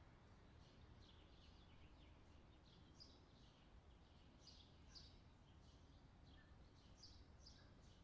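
Near silence: faint room hiss with many quiet, short bird chirps repeating through it.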